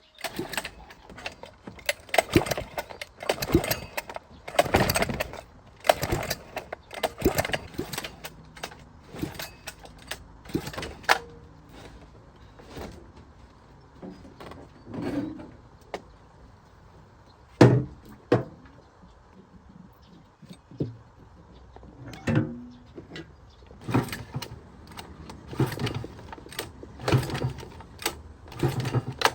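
Irregular clinks, clatters and knocks of metal tools and parts being handled during work on a generator, busier at the start and again near the end.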